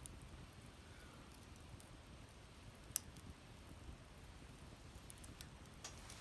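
Wood fire burning in a fire pit, crackling faintly with a few scattered clicks and one sharp pop about three seconds in.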